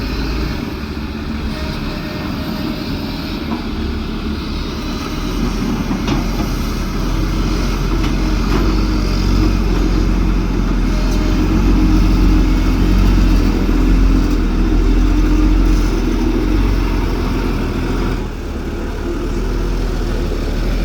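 Diesel truck engine running, growing louder through the middle and dipping briefly near the end.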